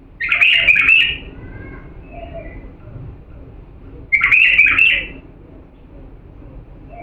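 Bulbul singing: two short, loud phrases of quick fluty notes, one at the start and another about four seconds in, with a few softer notes between.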